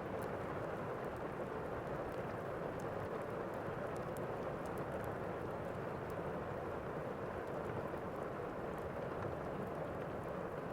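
Steady rain, an even unbroken hiss, with faint scattered crackles throughout.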